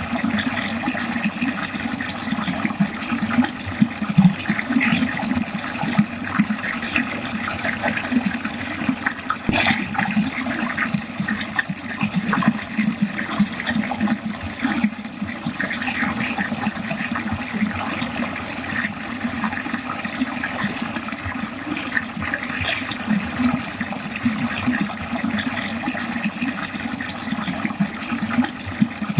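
Water running steadily down a drain, a continuous flowing rush without a break.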